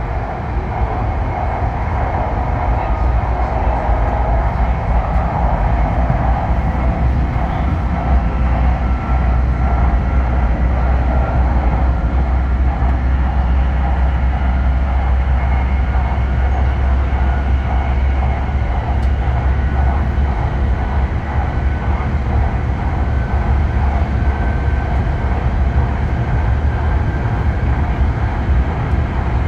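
Hokkaido Shinkansen H5 series train running at speed, heard inside the passenger cabin: a steady low rumble with faint thin tones above it.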